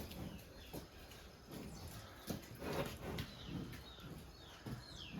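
Small birds chirping in short falling calls over scattered light knocks and shuffles.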